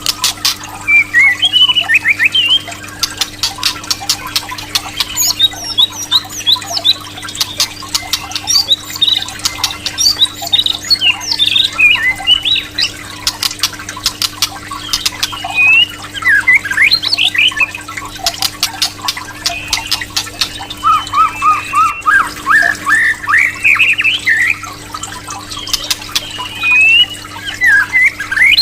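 White-rumped shama singing a fast, varied song of short rising and falling whistles mixed with sharp clicking notes, over a steady low hum.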